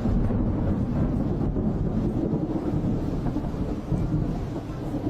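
Thunderstorm: a steady, low rumbling roar with rain.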